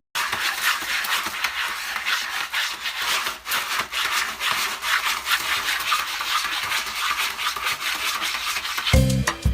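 Continuous rough scratching noise made of many quick strokes, with music starting near the end.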